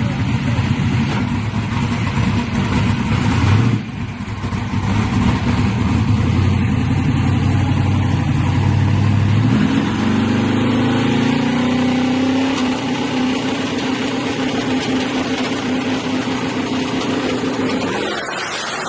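Twin-turbo engine of a box Chevy running loud with a heavy rumble; it drops off briefly about four seconds in, then its pitch climbs around ten seconds in and holds at the higher note.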